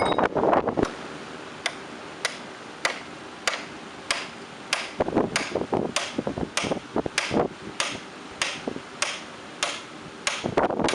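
Blacksmith's hammer striking steel on an anvil in a steady rhythm of about one and a half blows a second. Quicker, louder blows come near the end.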